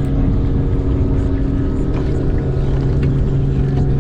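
A boat motor running steadily at an unchanging pitch, a constant hum over a rough low rumble.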